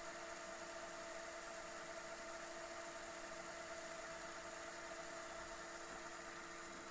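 Panasonic NV-SD300 VHS video recorder running under test after repair: a faint steady whir and hum with a few held tones over hiss.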